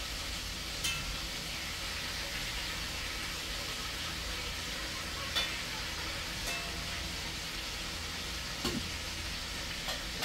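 Chicken pieces browning in a pot, sizzling steadily, with a few light clicks of a utensil against the pot as they are stirred and turned.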